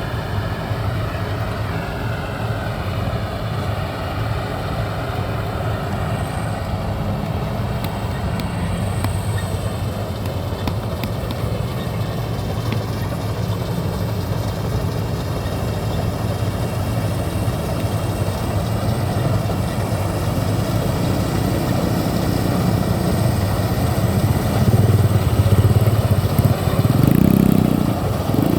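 Maxxi BIMO 102 rice combine harvester's engine running steadily, growing louder and deeper in the last few seconds.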